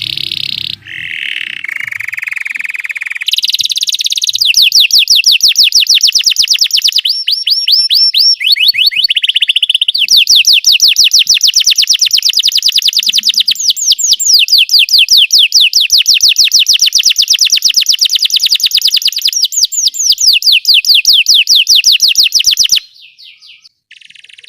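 Belgian canary singing: a few varied opening notes, then long, rapid trills of high sweeping notes, switching to a new trill every few seconds before stopping abruptly near the end.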